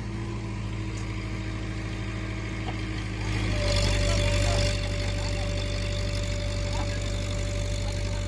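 Heavy diesel engine running steadily. About three seconds in it gets louder and a steady high whine starts and holds, as if the engine has been put under load.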